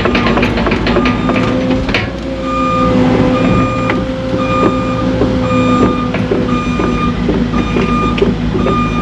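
Cat excavator running, with its travel alarm beeping about once every 0.8 seconds. The tracks clatter rapidly for the first two seconds, there is a knock about two seconds in, and then a steady whine holds for about four seconds.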